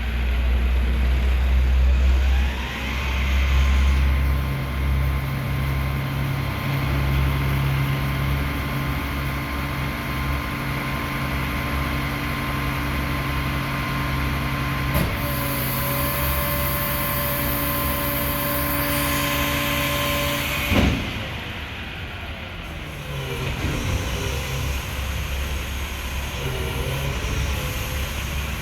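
Mack Heil front-loader garbage truck running hard with a steady whine over the engine rumble while it empties a recycling dumpster. There is a short sharp clank about 15 seconds in and a louder one about 21 seconds in, after which the whine stops and the truck runs more quietly.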